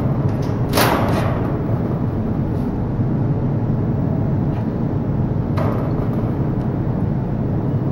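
Steady low mechanical rumble with two sharp knocks, one about a second in and another near six seconds.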